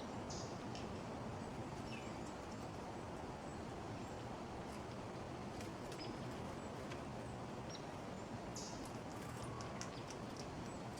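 Small songbirds giving a few short, high chirps, with scattered light clicks, over a steady low background hum of outdoor noise.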